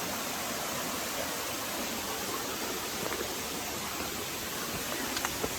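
Steady rush of falling water from a waterfall, an even hiss, with a few faint ticks near the end.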